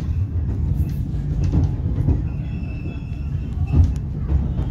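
Heritage railcar running on the rails, heard from inside the cab end: a steady low rumble of engine and wheels. A faint high wheel squeal comes in for about a second midway, and there is a sharp knock near the end.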